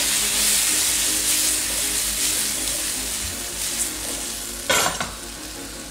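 Halved cherry tomatoes sizzling in hot oil in a frying pan as the pan is tossed over a gas burner; the hiss slowly dies down. A brief clatter comes near the end.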